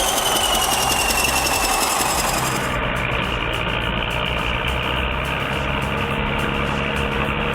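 A bulldozer's diesel engine running steadily, with a high whine falling in pitch at first. About three seconds in the sound changes abruptly, turning duller, with a steady low hum.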